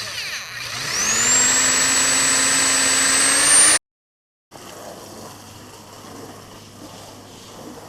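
An engine revving up, its pitch rising for about a second and then holding high, cut off abruptly about four seconds in. After a short gap comes faint steady noise with a low hum.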